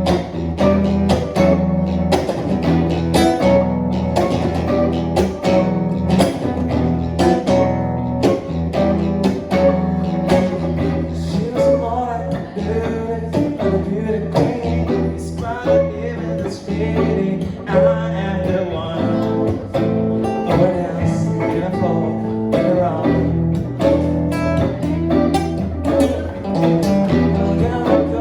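Acoustic and electric guitars playing an improvised instrumental passage, busy plucked notes over a steady low bass line.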